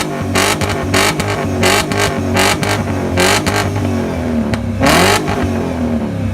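Ford Falcon AU engine revved hard in a rev battle, in repeated short throttle blips about two a second, with a longer, higher rev about five seconds in.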